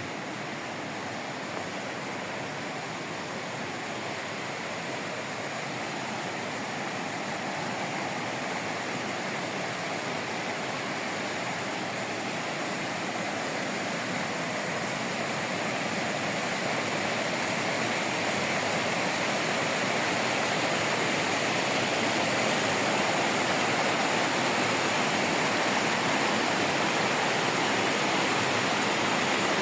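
Rushing water of a mountain waterfall, a steady roar that grows gradually louder.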